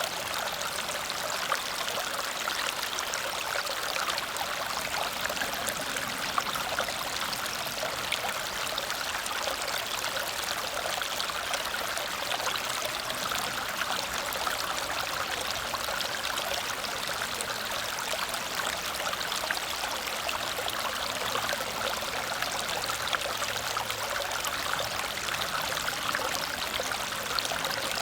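Water cascading over a small waterfall: an even, unbroken rush and splash, mostly high, with little deep rumble.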